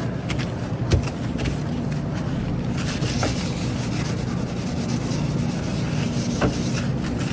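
Steady low machine hum, with a few sharp knocks: one about a second in and another near the end.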